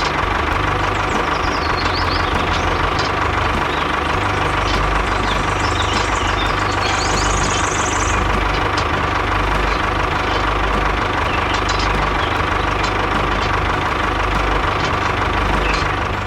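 Engine idling steadily with a fast, even knocking beat and a steady whine over it.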